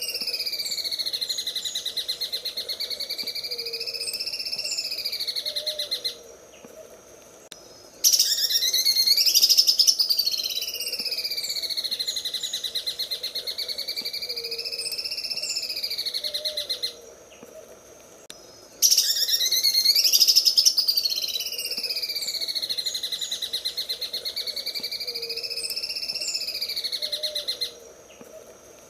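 Cucak ijo (greater green leafbird) singing its rapid, rattling 'sewing machine' (mesin jahit) song: long phrases of fast pulses whose pitch sweeps down and back up, repeated three times with short pauses of about two seconds between them.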